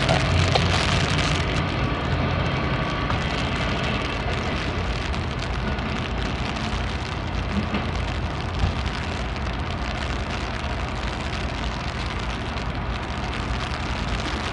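A freight train rolling past, its wheels on the rails making a steady rumble and hiss. A diesel locomotive's engine is heard fading out within the first couple of seconds.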